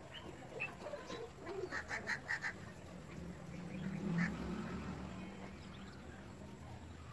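Birds calling: a quick run of about four short calls around two seconds in, then a louder, lower call about four seconds in.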